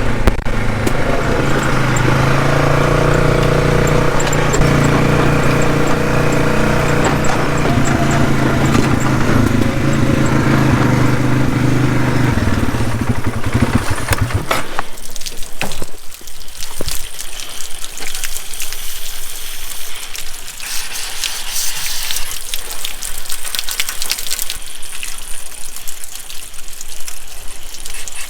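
An engine runs steadily at constant speed for about half the time, then gives way abruptly to a steady, rushing hiss with faint rattles.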